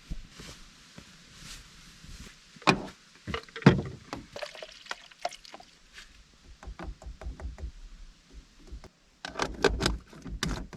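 Irregular knocks, clicks and thumps of objects being handled and set down in a car, with two louder thumps a few seconds in and a quick run of knocks near the end.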